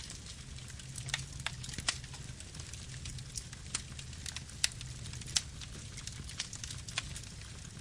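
Campfire burning: wood crackling with irregular sharp pops over a low, steady rumble of the flames.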